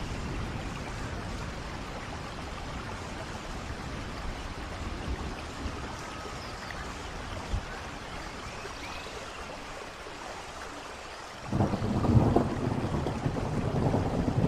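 Steady rain falling beside a rushing waterfall. About three-quarters of the way through, a sudden loud rumble of thunder breaks in and carries on.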